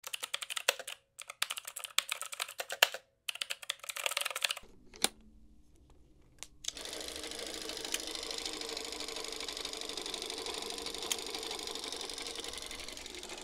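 Film projector clattering and crackling, broken twice by short gaps. After a quiet lull with a low hum, it settles into a steady whir about seven seconds in.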